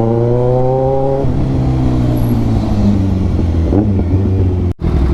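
Kawasaki Ninja 1000's inline-four through a full-system Austin Racing exhaust, pulling hard with rising pitch for about a second, then dropping to a lower, steadier note as the rider rides on. The sound cuts out for an instant near the end.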